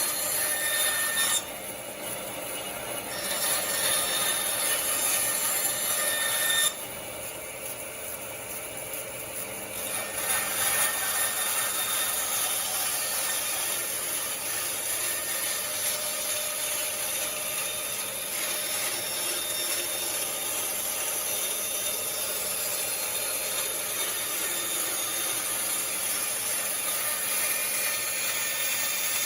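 Vintage-style cast-iron band saw with a 4 kW motor cutting wood: a steady hiss of the blade through timber over the running machine. Twice in the first ten seconds the sound drops away for a few seconds and then picks back up.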